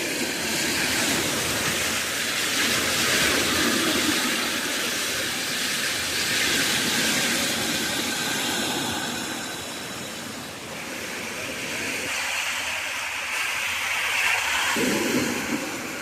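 Steady rushing of a swollen river in flood, loud and unbroken, easing off slightly about ten seconds in before building again.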